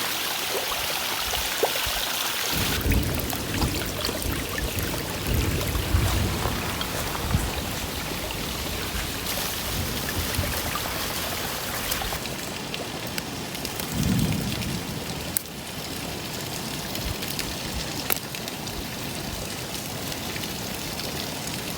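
Running water, a steady rushing splash, with a few low bumps now and then.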